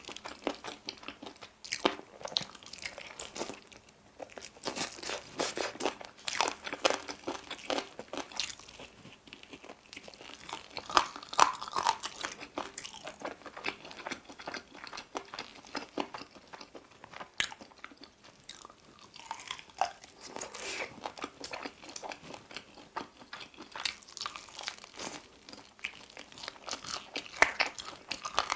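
Close-up eating of sauced baked chicken wings and drumsticks: irregular bites, crunching and wet chewing, with a few louder crunches now and then.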